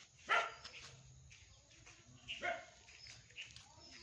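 A dog barking twice, short single barks about two seconds apart.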